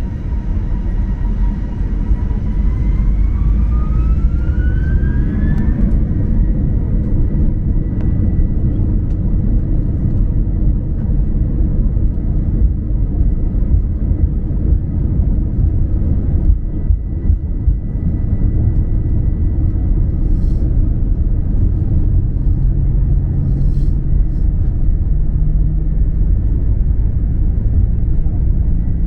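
Airbus A321 jet engines spooling up for takeoff: a whine rises in pitch over the first six seconds and then holds as a steady high tone over a loud, steady rumble.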